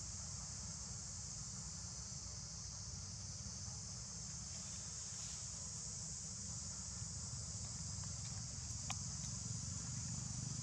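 A steady, high-pitched drone of insects over a low rumble, with a single sharp click about nine seconds in.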